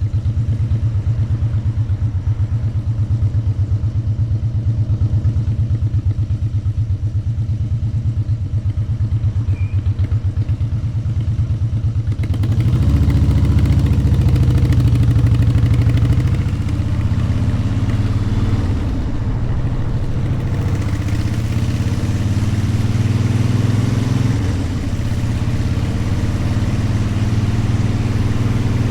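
Motorcycle engine idling with an even low pulse, then about twelve seconds in it revs up and pulls away, getting louder and rising in pitch.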